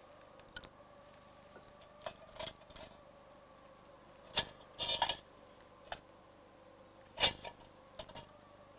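Irregular clicks and clatters of small hard objects being handled, loudest in a cluster about four and a half to five seconds in and in a sharp knock about seven seconds in, over a faint steady hum.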